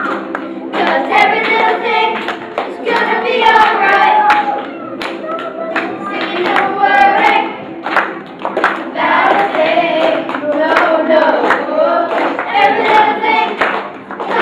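A group of children singing together in unison, with hand claps mixed in.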